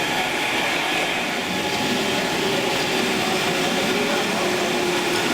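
Model train running along its track, a steady whirring rumble.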